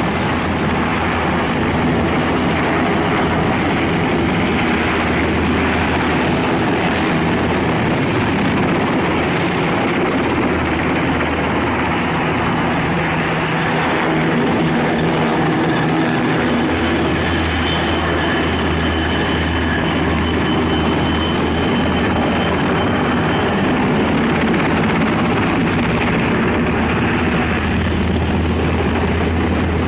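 Helicopter flying overhead, with steady rotor and turbine noise and a low throb that grows stronger and weaker over the stretch.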